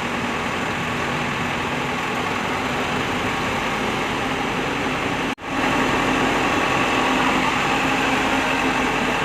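Truck crane's diesel engine running steadily with a low hum. The sound cuts out abruptly for a moment about five seconds in and comes back a little louder.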